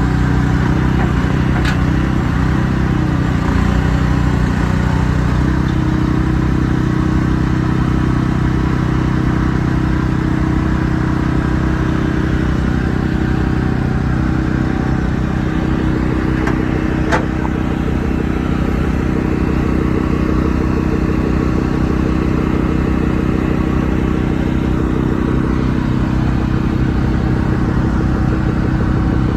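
A large truck engine running steadily at idle, with a brief wavering in its pitch in the first few seconds. Two sharp ticks sound, about 2 seconds and 17 seconds in.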